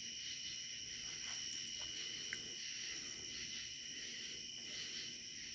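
Steady high-pitched chorus of night insects such as crickets, with a single faint click about two seconds in.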